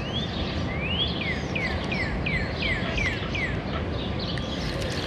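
A songbird singing a run of quick whistled notes: a couple of rising slurs, then about eight notes that each slide downward, roughly three a second. Steady low background noise underneath.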